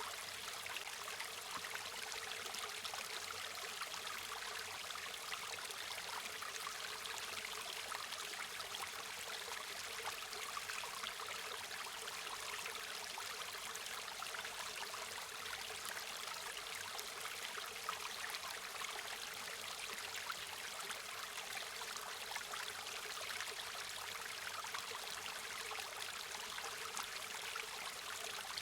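River water flowing and babbling over rocks: a steady, even rush with fine trickling detail.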